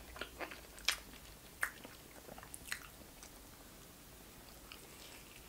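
Faint chewing of a mouthful of hamburger, with a string of short sharp clicks in the first three seconds, then quieter as another big bite is taken.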